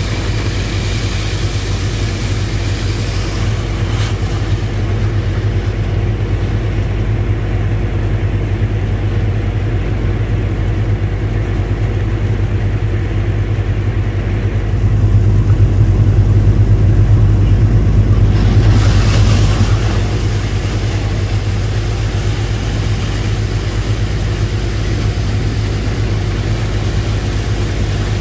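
The engine of a sand-pumping rig runs steadily under load with a deep, even hum, pumping sand mixed with many rocks and wood out of a boat's hold. It grows louder for a few seconds about halfway through.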